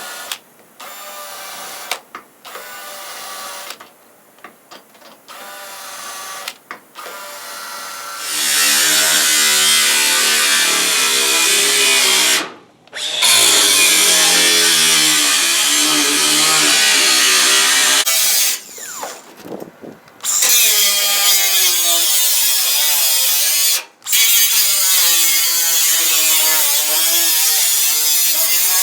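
Electric drill working into the sheet-metal roof of a 1963 Chevy truck. It whirs in short, quieter spurts at first, then runs loud and hard under load from about eight seconds in, with a wavering pitch and a few brief stops.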